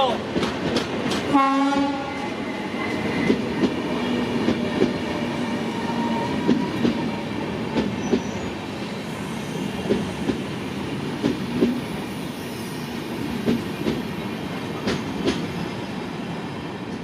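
A passenger express running on the rails, its wheels clattering irregularly over the track. Near the start the WAG-9 electric locomotive gives a short horn blast.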